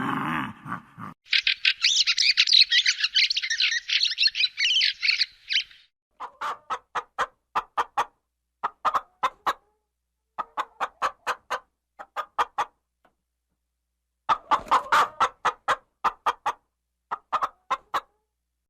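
About four seconds of busy high-pitched bird chirping, then a hen clucking in several runs of quick clucks broken by short pauses.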